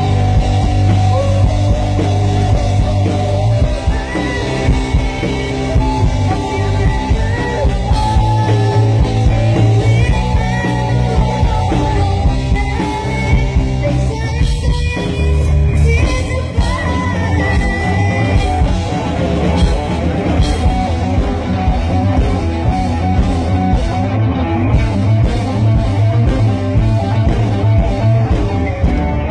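Live rock band playing: drum kit, bass and electric guitar, with a singer.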